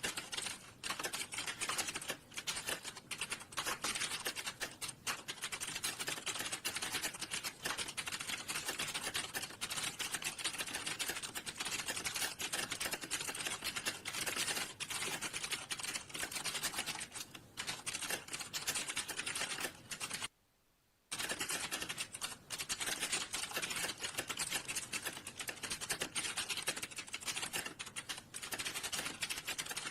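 Fast, continuous typing on a computer keyboard, a rapid steady stream of key clicks, cut off for about half a second a little after two-thirds of the way through before resuming.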